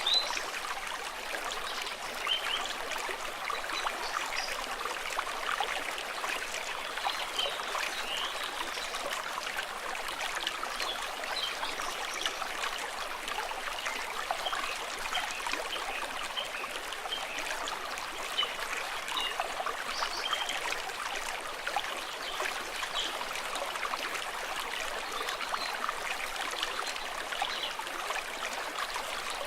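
A stream running steadily, a continuous babble of flowing water with many small trickling sounds.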